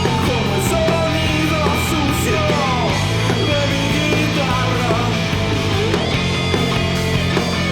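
Rock music with distorted electric guitar, bass and drums, and a lead line sliding up and down in pitch through the middle.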